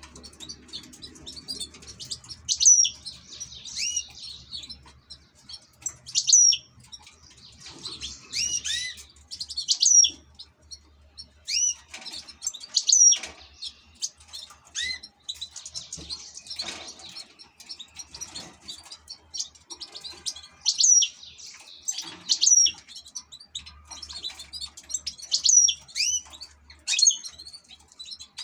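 European goldfinch singing: bursts of bright twittering phrases made of quick sliding notes, coming every second or two.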